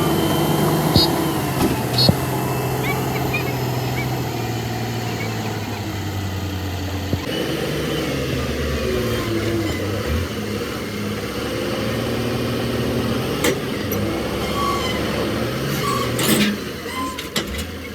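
An engine running steadily, its pitch shifting about seven seconds in, with a couple of sharp clicks about one and two seconds in.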